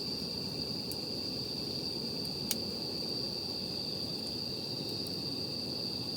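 Wood campfire burning with a few sharp crackles, the loudest about two and a half seconds in, over a steady high-pitched insect trill.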